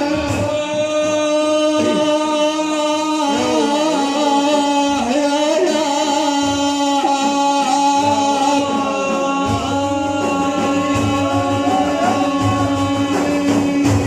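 Male voice singing an Iraqi religious praise song (manqaba) with no clear words: one long steady held note, with winding, ornamented sung lines above it. Frame drums beat low underneath, stronger in the second half.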